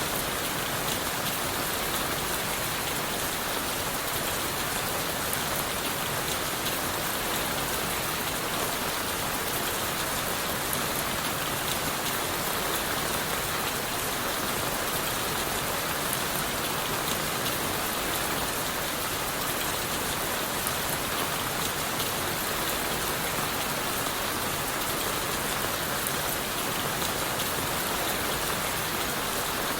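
Steady rain falling on leaves, wood and the forest floor, a dense even patter of drops with no breaks.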